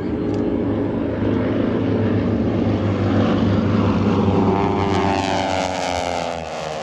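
North American Texan trainers' radial engines and propellers flying past, growing louder, then dropping in pitch as they go by about two-thirds of the way through.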